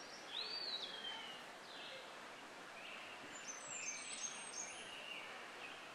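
Forest ambience with birds calling: a whistled call that rises and then slides down near the start, then a flurry of short high chirps in the middle, over a steady soft hiss.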